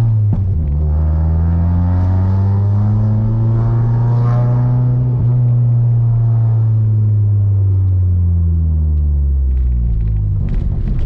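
Audi TT's big-turbo 1.8T four-cylinder engine running under light load, heard from inside the cabin as a steady low rumble. The revs climb gently over the first few seconds, then slowly fall away.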